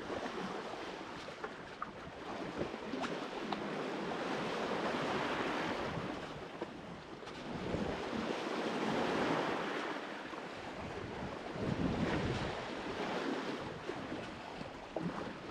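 Open-sea waves and water rushing along a sailboat under way, with wind buffeting the microphone; the wash swells and eases every few seconds.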